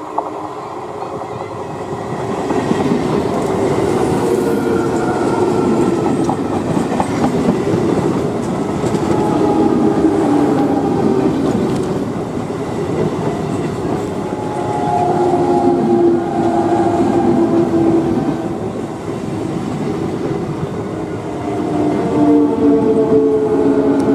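Electric multiple unit (EMU) suburban trains passing close by, getting loud about two seconds in: a steady rush of wheels on rail with rapid clickety-clack, and pitched tones heard at times over it.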